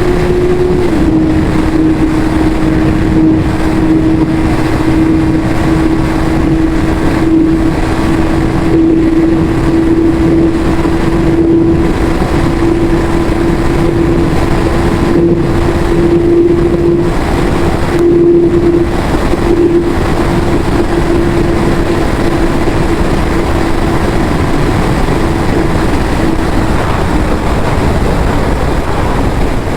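Yamaha YZF-R6 inline-four engine on its stock exhaust, running at a steady high engine speed with a constant pitch over a steady rushing noise. The pitch drops a little near the end.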